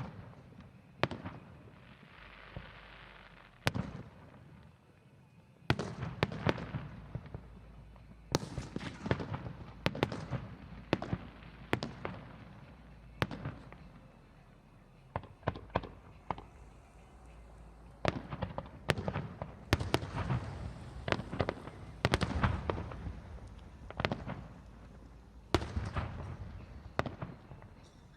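Fireworks display: aerial shells bursting with sharp bangs, each trailing off in a low rumble, a few at first and then coming thick and fast from about eight seconds in.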